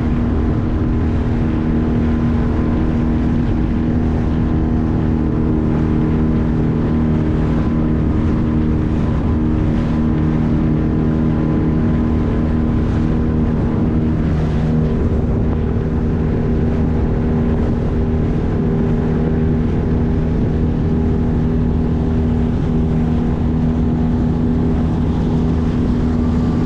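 A 9.8 hp outboard motor running steadily, pushing a small boat along at speed. Its tone changes slightly about halfway through.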